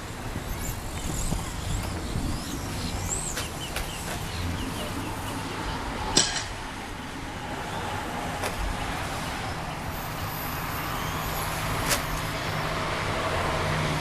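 Electric RC stadium trucks racing on a dirt track, their motors whining high and gliding up and down in pitch as they accelerate and slow. There is a sharp knock about six seconds in and another near twelve seconds.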